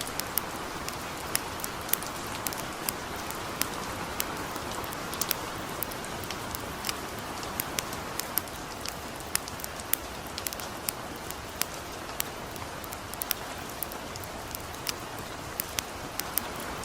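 Gentle rain falling steadily, with the sharp, irregular crackles and pops of a campfire, several a second.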